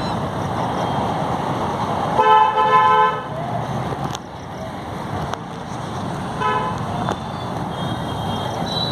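A vehicle horn honks twice over steady street noise: a held toot of about a second, about two seconds in, then a short toot a few seconds later.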